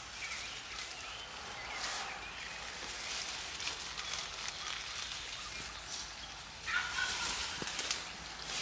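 A wild turkey gobbler gobbling once, a short rattling call near the end, over quiet outdoor ambience.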